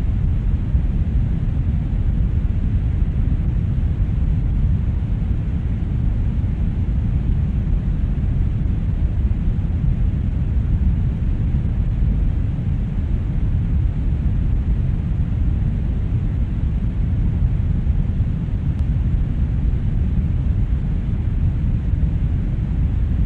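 Brown noise: a steady, deep rumbling hiss with its weight in the low end, unchanging throughout.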